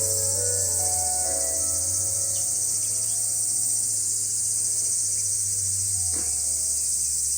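Steady, loud chorus of crickets, a dense high-pitched trilling, over a low steady hum.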